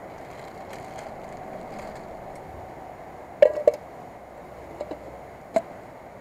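Steady rushing background noise broken by sharp knocks: a quick loud pair about three and a half seconds in, two faint ticks a second later, and one more knock shortly after.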